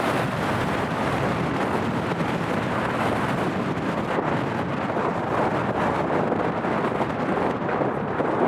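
Wind blowing across the camera microphone, a steady rushing and buffeting noise with no breaks.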